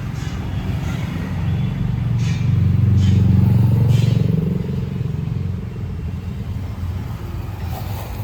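A road vehicle's engine rumble that grows louder towards the middle and then fades, like a vehicle driving past.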